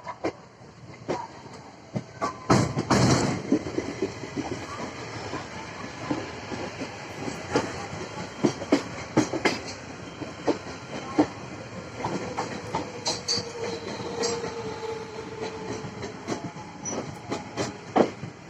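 Moving passenger train: a steady rumble, with the wheels clattering over rail joints in sharp, irregular knocks throughout and a louder rush about two and a half seconds in.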